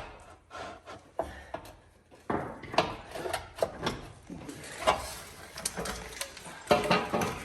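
Irregular metallic clinks and knocks of hand tools and truck drivetrain parts being handled, as the crossmember under the transmission is taken off.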